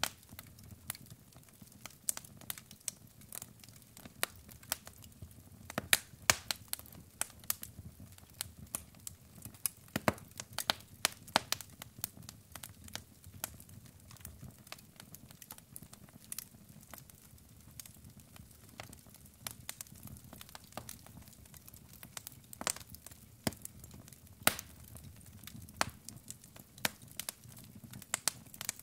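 Wood fire in a fireplace crackling, with many sharp, irregular pops and snaps from the burning logs over a low steady rumble of flame.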